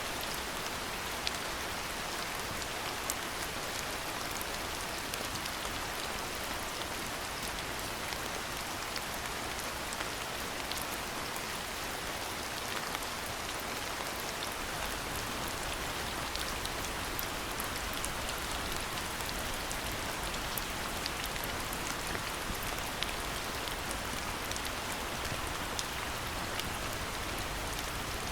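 Steady rain falling on surfaces, an even patter with many small drop ticks.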